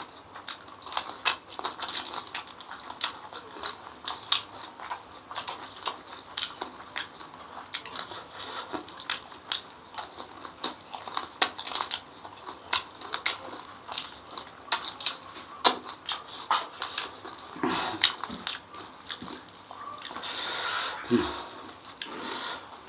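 Close-up mouth sounds of eating spicy chicken feet by hand: irregular sharp wet clicks, smacks and small crunches of chewing. Near the end there is a longer, louder noisy stretch.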